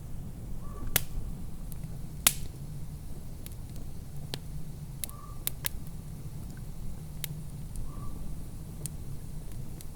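Wood fire crackling: sharp pops and snaps at irregular moments, the loudest a little over two seconds in, over a steady low rumble. A faint short higher tone comes back a few times.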